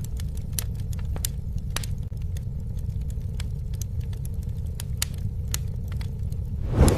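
Campfire burning: irregular sharp crackles and pops of burning wood over a steady low rumble of the flames, with a brief louder whoosh near the end.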